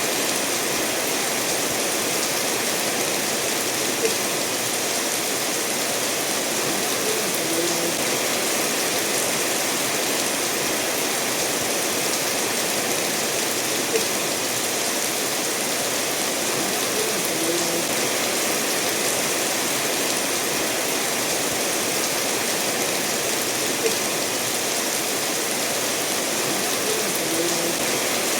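Steady rainfall mixed with the rush of a stream flowing over stones, with a faint tick about every ten seconds.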